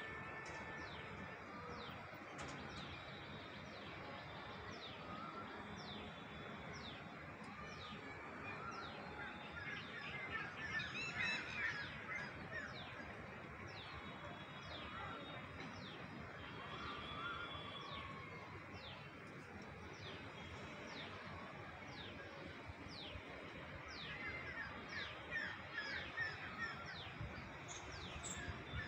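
Birds calling outdoors. One bird repeats a short, falling high note about once a second, and louder bursts of chattering calls come about a third of the way in and again near the end, over a steady background hiss.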